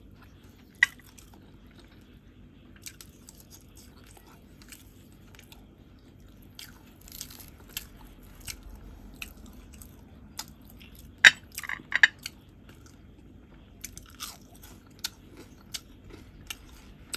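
Close-miked eating: chewing and biting with scattered short, wet mouth clicks, and a few louder clicks a little past the middle.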